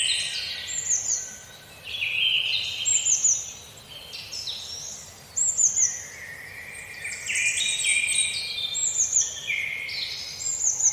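Several songbirds singing with overlapping phrases. Quick, high falling notes are repeated in short groups every second or two, over lower trilled notes.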